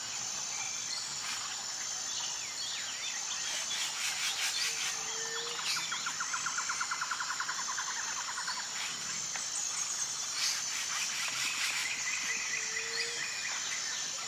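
Wild birds calling over a steady high chirring of insects. The birds give scattered chirps and whistles, and a rapid, even trill runs for about two seconds near the middle.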